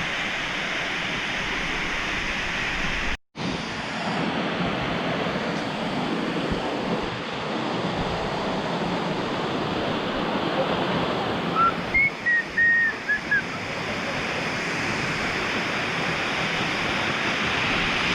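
Steady rushing of running water from a jungle river or waterfall. It cuts out for an instant about three seconds in. About midway, a few short high chirps sound over it.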